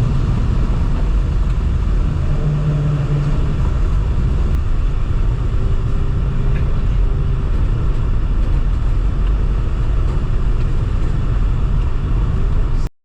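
Steady low rumble of engine and tyre noise heard from inside a moving car, cutting off abruptly near the end.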